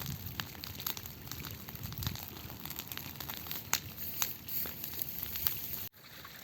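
Bonfire of dried Japanese angelica tree (taranoki) wood and cut grass crackling, with irregular sharp pops over a low rumble of flames. It cuts off suddenly near the end.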